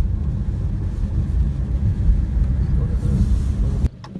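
Wind buffeting a phone's microphone: a loud, gusting low rumble that cuts off suddenly near the end.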